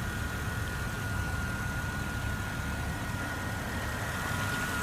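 Car engine idling: a steady low rumble, with a faint steady high-pitched whine over it.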